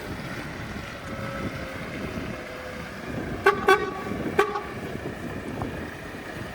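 Three short toots of a vehicle horn, two close together and a third just after, over steady outdoor background noise.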